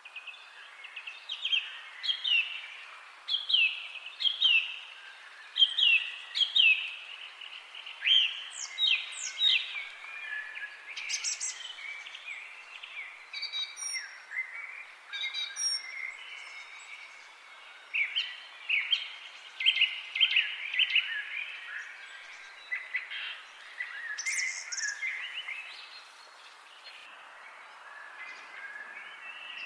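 Songbirds chirping in quick runs of short, falling notes, with a few thin high notes mixed in, over a steady background hiss.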